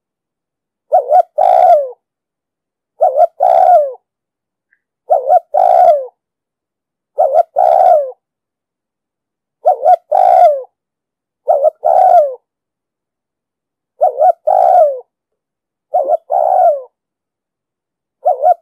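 Spotted dove cooing: a repeated phrase of two short coos and a longer falling coo, given about every two seconds, nine times. This is the male's territorial coo ('gù') used as a lure to draw wild doves.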